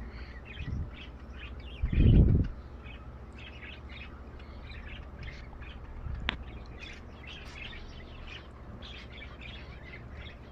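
A flock of small cage birds in an aviary chirping continuously, many short overlapping calls. A brief low rumble, the loudest sound, comes about two seconds in, and a single sharp click a little after six seconds.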